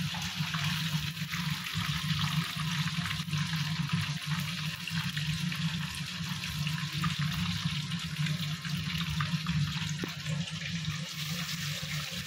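Marinated chicken legs frying in hot oil, a steady sizzle flecked with small crackles, over a low steady hum.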